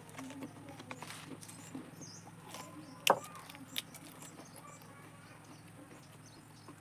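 A person chewing tamarind pulp near the microphone, with soft wet mouth clicks and one sharp crunch about three seconds in, then a smaller one. A faint steady hum sits underneath.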